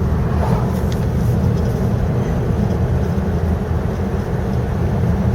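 Steady engine and road drone of a 1950 Rover P4 'Cyclops', with its straight-six engine, cruising along a country lane, heard from inside the car.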